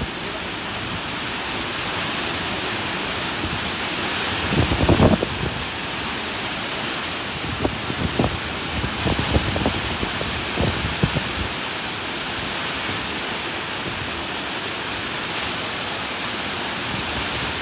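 Steady rushing of water, like a mountain river or waterfall, with a handful of soft knocks over its first half.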